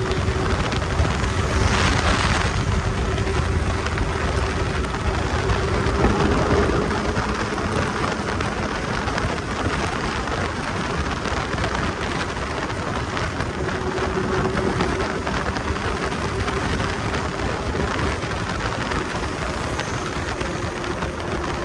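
Kawasaki Z800's inline-four engine running at a steady cruise under a loud, even rush of wind noise, with a faint steady engine hum that fades midway and comes back.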